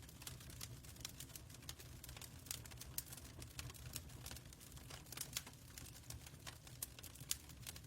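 Wood fire crackling in a fireplace: irregular sharp pops and snaps of uneven strength over a faint low rumble.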